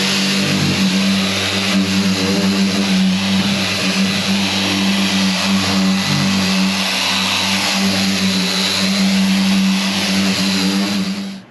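A handheld electric power tool's motor runs steadily at speed with a constant hum, then is switched off and stops abruptly just before the end.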